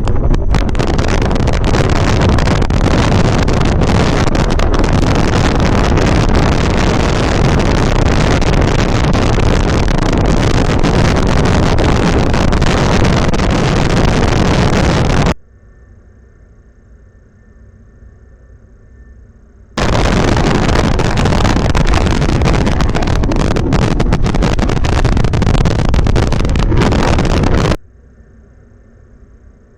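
Strong wind buffeting the microphone: a loud, continuous rumbling roar. It cuts off abruptly about fifteen seconds in, comes back about four seconds later, and cuts off again near the end, leaving only a faint steady hum in the gaps.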